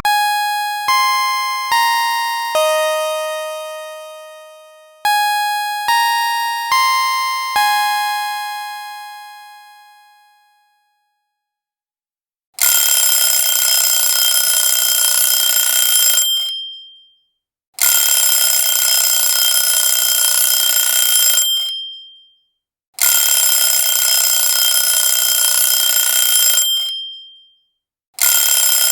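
A short chime melody of about eight bell-like notes, each dying away, then after a brief pause an alarm clock ringing loudly in bursts of about four seconds with short gaps, four times.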